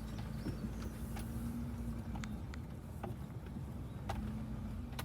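A slow-moving vehicle: a steady low rumble with a faint hum that drops out briefly in the middle, and scattered small clicks.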